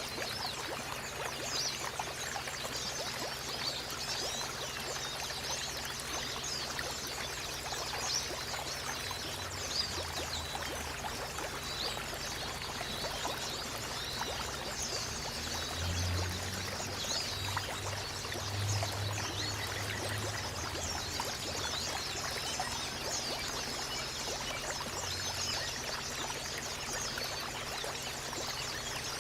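Running water trickling and splashing steadily, with many small songbirds chirping in quick high notes over it, as a calming ambience track for caged white-eyes.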